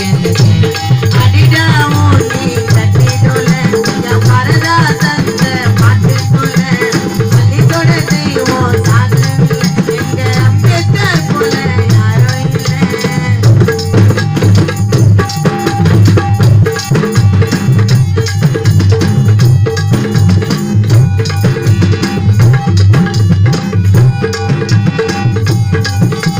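Funeral music in the South Indian style: fast, steady drumming with rattling percussion, a wavering melody line over it for about the first half, then drums alone with sharp beats.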